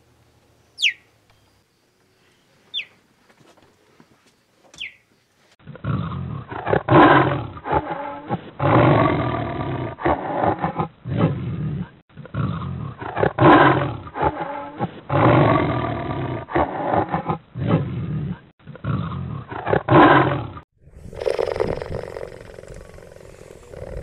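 Cheetah vocalizations. Three short, sharp chirps falling in pitch come about two seconds apart, then from about six seconds in a loud series of deep calls in repeated bursts follows. Near the end they give way to a quieter, steadier call in a different recording.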